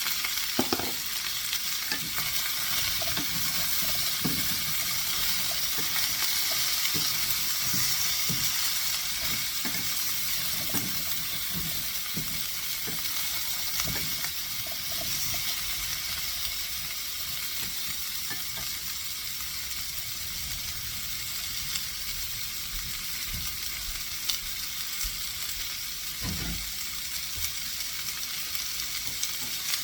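Zucchini sautéing in oil in a hot pan over medium-high heat: a steady frying sizzle, with scattered light knocks and a soft thump about 26 seconds in.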